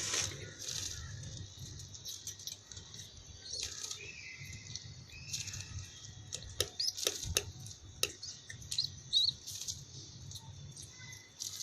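Pigeon chick being fed by its parent: fluttering wings, scattered soft taps and rustles, and a few thin high begging squeaks.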